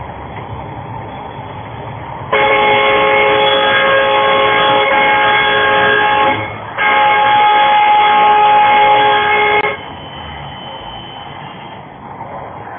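Truck air horn sounding two long blasts, the first about four seconds and the second about three, with a short break between, several tones sounding at once. Steady road and engine noise runs underneath.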